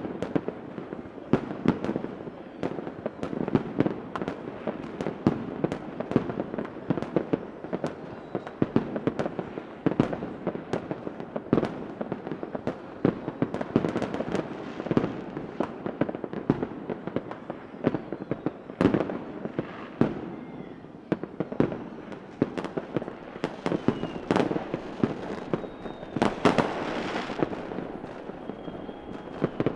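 Fireworks going off without a break: a dense crackle of many sharp bangs, with a few louder bangs and some faint whistling glides in the second half.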